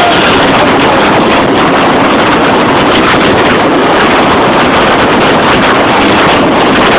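Loud, steady running noise of a motor vehicle, with wind buffeting the microphone.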